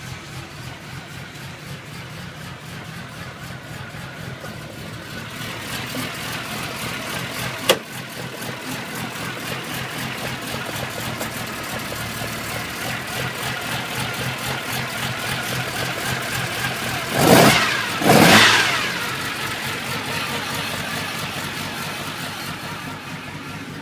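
Nissan Skyline GT-R's S20 twin-cam straight-six idling with a steady pulse. A single sharp crack comes about eight seconds in, then two quick throttle blips near the end, each rising and falling in pitch.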